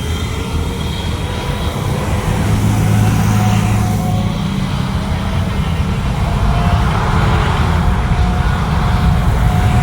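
Jet airliner engines rumbling loudly, with faint whining tones drifting slightly in pitch.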